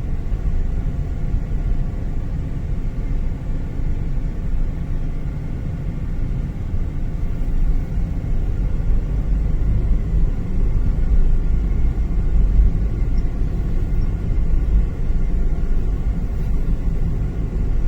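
Steady low rumble of a car on the move, its engine and tyre noise heard from inside the cabin.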